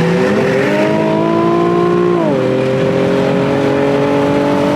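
Car engine pulling hard under acceleration: its pitch climbs, drops sharply about two seconds in at an upshift, then climbs again in the next gear.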